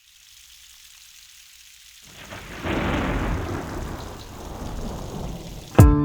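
Rain hissing, then a roll of thunder that comes in about two seconds in, peaks soon after and slowly dies away. Plucked guitar music starts right at the end.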